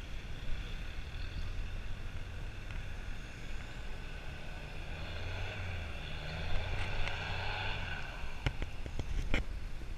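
A vehicle engine running steadily, with a few sharp knocks near the end.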